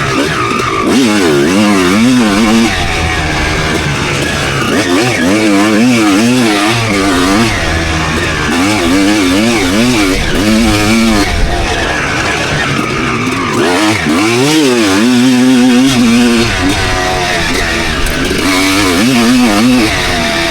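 Suzuki RM250 single-cylinder two-stroke motocross bike being ridden hard, its engine pitch rising and falling again and again as the throttle is worked on and off.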